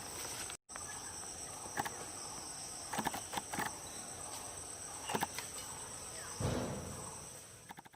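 Steady high-pitched insect chorus, with a few faint clicks and a soft low rustle about six and a half seconds in that fades out toward the end.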